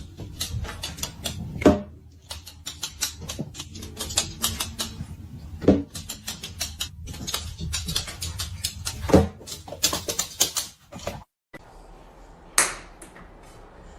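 Quick, irregular clicking and tapping, with louder knocks about two, six and nine seconds in. The sound cuts out briefly near eleven seconds, then goes on more quietly with one more knock.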